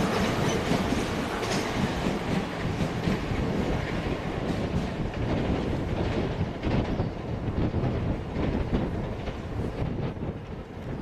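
Train running along the tracks, its wheels clicking over the rail joints; the sound thins out and fades near the end as it moves away.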